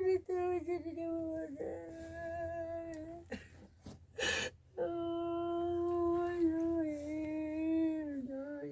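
A high voice holding long, slightly wavering notes, like a wail or a plaintive hum, broken near the middle by two short breathy gasps.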